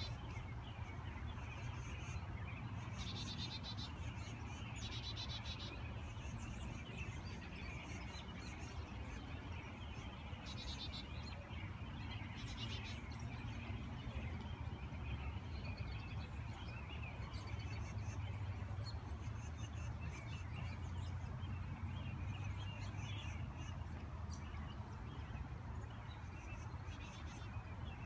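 Small birds calling in short, high-pitched chattering bursts of rapidly repeated notes, several times over, above a steady low rumble.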